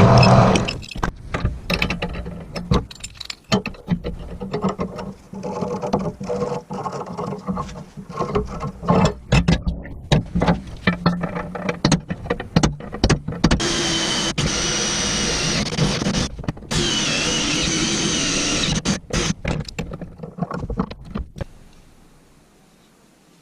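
Workshop sounds from metal restoration work: a run of sharp knocks and clattering, then a power tool running steadily in two spells of a few seconds each, stopping before the end.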